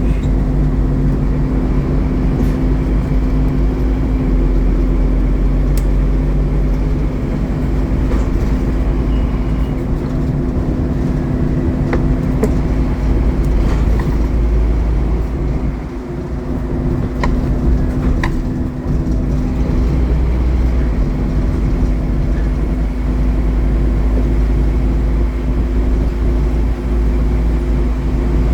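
Scania N230UD Omnicity double-decker bus's five-cylinder diesel engine running steadily under way, with a deep, even drone and a brief easing of the level about halfway through.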